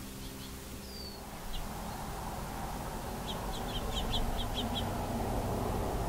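Small songbirds chirping: a few scattered short chirps and a brief falling whistle in the first second and a half, then a quick run of about eight high chirps around the middle, over a steady low background hum.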